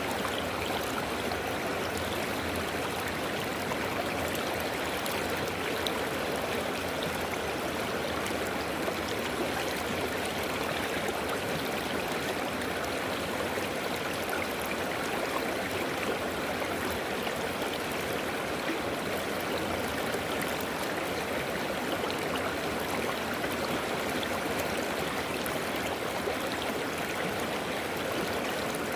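River water flowing and babbling over stones in a steady, even rush, with a dense spatter of small splashes and no break.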